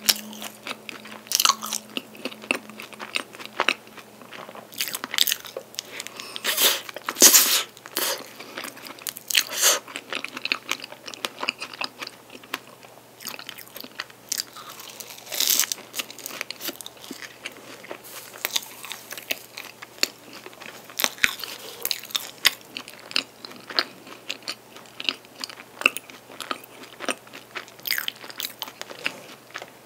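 A person chewing and biting into a chocolate-coated pastry filled with dark chocolate, close to the microphone: irregular crisp crunches between softer chewing, the loudest crunches about seven seconds in.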